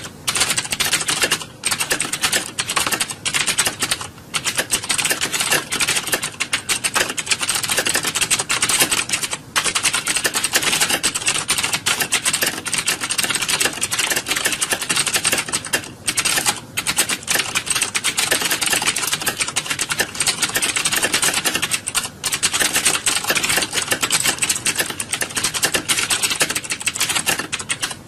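Many computer keyboards being typed on at once, a dense, continuous clatter of key clicks with only a few brief lulls.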